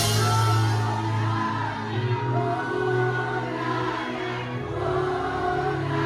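Live gospel music: a choir singing over a band, with sustained low bass notes underneath.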